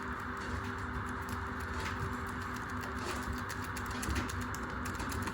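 Washing machine running, with a steady motor hum and a rapid, irregular clatter of loose objects knocking about inside the drum.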